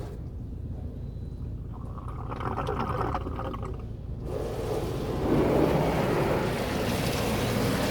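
Touchless automatic car wash (WashWorld Razor Edge) spraying water onto the car: the spray eases off in the first half, then the full hiss and drumming of water on the car comes back about four seconds in.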